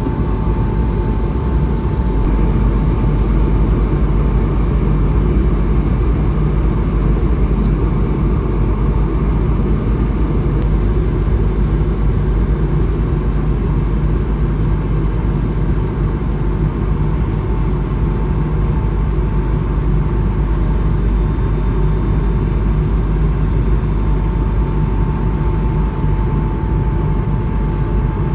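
Cabin noise inside an Airbus A220-300 airliner: a steady, loud mix of engine and rushing air noise from its Pratt & Whitney PW1500G turbofans and the airframe, heaviest in the low range, with a thin steady whine running over it.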